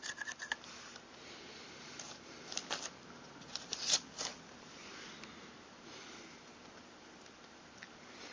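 A few faint, short clicks and light taps of shotgun parts being handled and fitted during reassembly, the clearest ones about four seconds in, over low background hiss.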